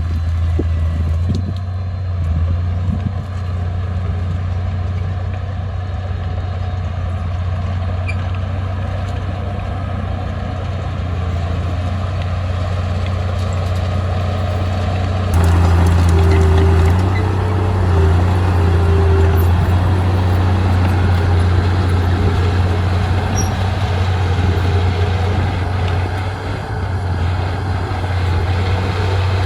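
Diesel engine of heavy earthmoving machinery running steadily with a strong low drone. About halfway through it grows louder and fuller, as under heavier load, and a short higher whine comes and goes for a few seconds.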